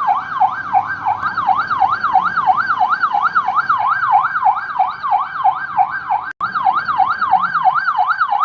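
Electronic ambulance siren in a fast yelp, its pitch sweeping up and down about three or four times a second, with a brief break about six seconds in.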